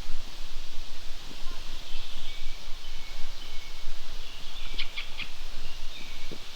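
Small birds calling over a steady outdoor background noise: thin high whistles about two seconds in and a quick run of chirps about five seconds in.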